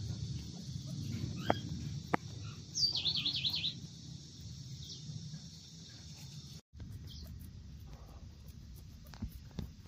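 A small bird chirping in a quick repeated trill about three seconds in, with fainter chirps later, over a steady low background rumble. A few sharp clicks come through now and then, and the sound drops out for an instant about two-thirds of the way through.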